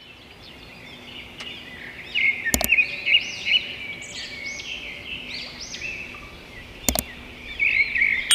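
Many small birds chirping and warbling over one another in quick, overlapping high calls. A sharp double click sounds twice, about two and a half seconds in and again near seven seconds.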